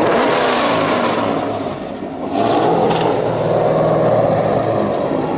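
Drift car engine revving hard, easing off about two seconds in and then climbing again.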